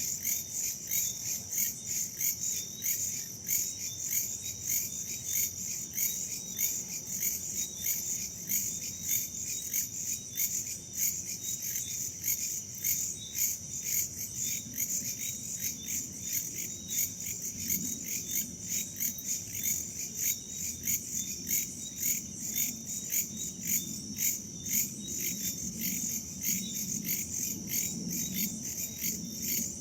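A chorus of crickets and other insects chirping in a fast, even pulsing rhythm, steady throughout, with a faint low rumble of wind beneath that grows a little in the second half.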